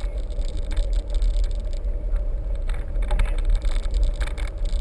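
Wind rumbling on the microphone over a steady hum, with scattered clicks and light rattles.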